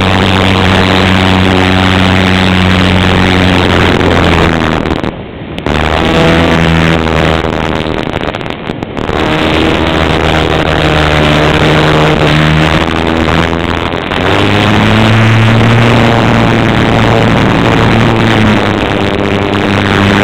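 Cessna light aircraft's piston engine and propeller droning steadily and loudly. It drops away briefly twice, about five and eight and a half seconds in, and its pitch shifts about fifteen seconds in.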